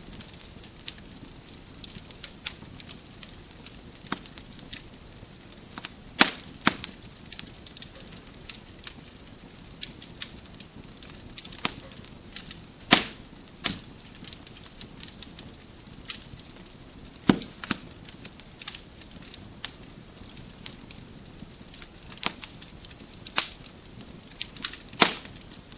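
Wood fire crackling in a fireplace: a soft steady hiss with irregular small snaps and, every few seconds, a louder sharp pop of burning logs.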